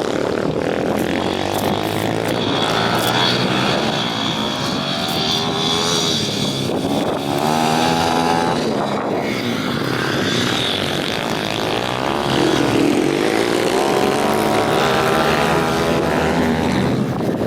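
Several pit bike engines running hard around the track, revving up and down as the riders accelerate and shift, the pitch repeatedly rising and falling.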